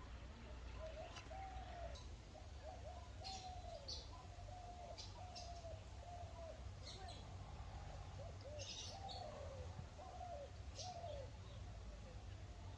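Birds calling: a steady string of short rising-and-falling calls, about two a second, with scattered brief high chirps over a low rumble.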